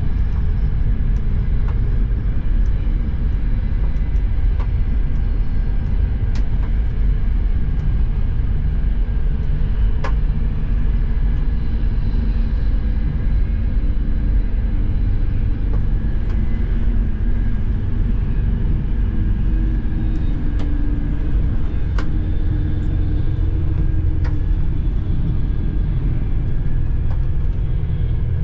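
Steady low rumble of a Frecciarossa ETR 500 high-speed train running at speed, heard from inside a passenger coach. A few faint clicks are scattered through it.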